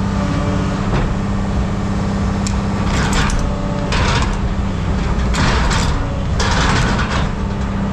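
Heavy scrap-yard machinery running steadily with a low hum, with several rushes of scraping and rattling scrap metal over it.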